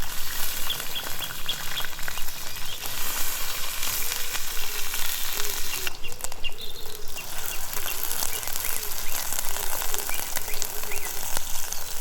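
Steady sizzling and crackling of food cooking in a pan over a wood fire, with birds chirping now and then.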